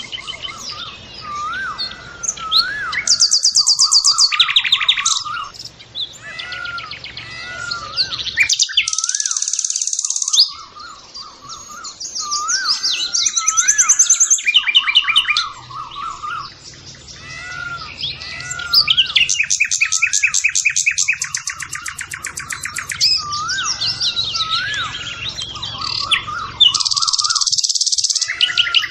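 Birdsong from several birds: a steady string of short curved whistled notes, overlaid every few seconds by fast, high-pitched trills lasting one to three seconds.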